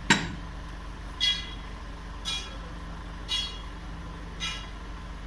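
A sharp metallic knock, followed by a short high-pitched tone that repeats evenly about once a second.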